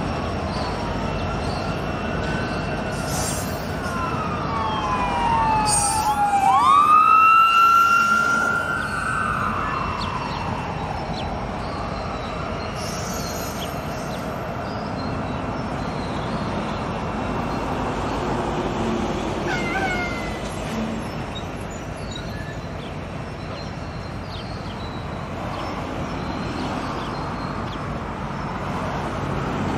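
Freight train rolling past with a steady rumble of wheels on rail. Squealing wheels give several high tones that slide up and down at once. The squeal is loudest about seven seconds in and comes back briefly near twenty seconds.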